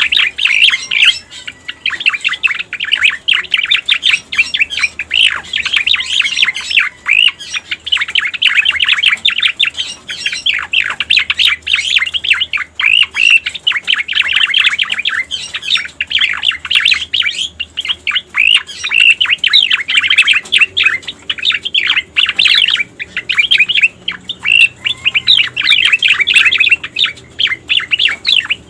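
Cica koreng (striated grassbird) song played as a bird-lure recording: a long, unbroken run of rapid, sharp chirps and sweeping notes, with only very short breaks.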